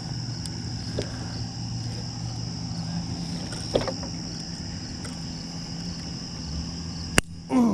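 Steady insect buzzing with a low hum of distant traffic, broken by a few faint handling clicks and one sharp click about seven seconds in as a tool works a piece of stringer off a flathead catfish.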